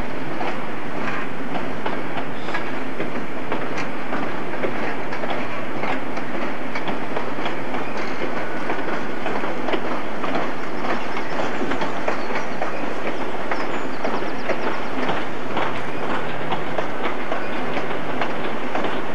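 Passenger train's coaches passing at speed, a steady rumble with rapid wheel clicks over the rail joints.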